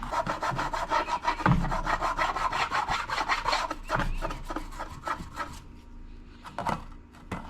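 A toothbrush scrubbing baking soda paste on a toaster oven's surface: rapid back-and-forth strokes that stop about five and a half seconds in, followed by a few single strokes.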